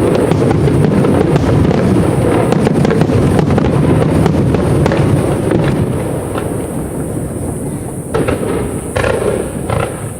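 Fireworks display: a dense barrage of shell bursts and crackle over a continuous low rumble. It thins out about six seconds in, then a few separate louder bursts come near the end.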